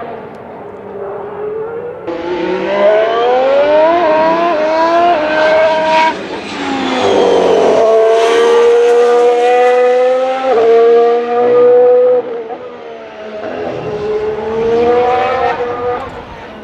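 Formula 1 cars' turbocharged V6 hybrid engines accelerating on track, their pitch climbing with quick upshifts. The loudest stretch, at high revs, runs from about seven to twelve seconds in and cuts off sharply, and another car's engine climbs again near the end.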